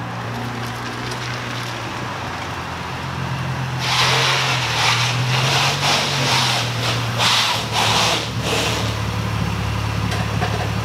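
Nissan 350Z's 3.5-litre V6 running at a low, steady idle as the car creeps forward under its own power. About four seconds in, a louder, uneven rushing noise joins it for roughly five seconds, then fades back to the engine hum.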